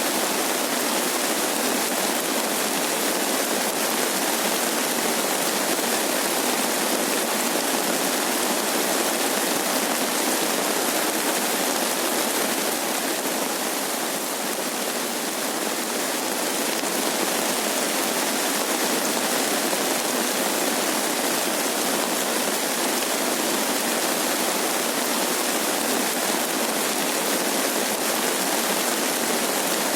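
Steady rain falling, an even hiss with little low end that eases slightly about halfway through.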